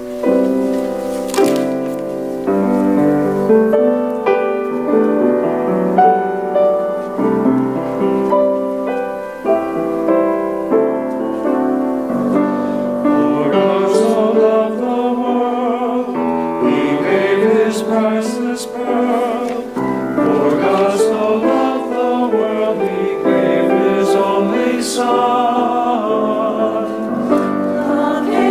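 Choir singing with keyboard accompaniment: held keyboard chords alone at first, with the voices coming in about halfway through.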